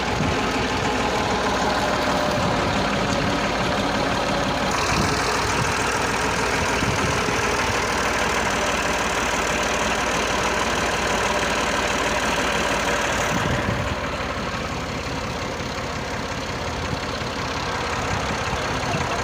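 An engine running steadily with a dense mechanical clatter. The sound changes abruptly about five seconds in and again near fourteen seconds.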